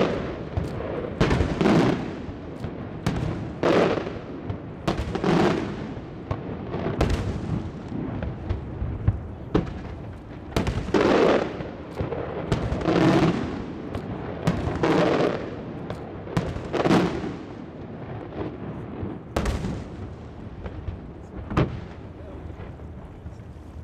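Aerial firework shells bursting in quick succession: sharp, echoing bangs every second or two, thinning out in the last few seconds.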